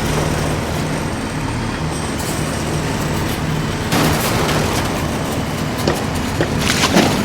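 A steady, pulsing engine-like hum of a vehicle running, with a scraping, clattering rush about four seconds in and again near the end.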